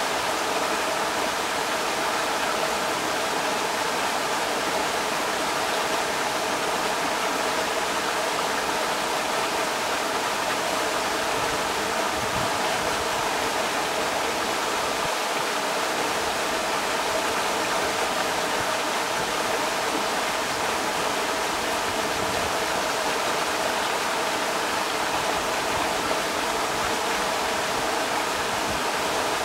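Creek water rushing steadily over rocks, an even, unbroken hiss and gurgle.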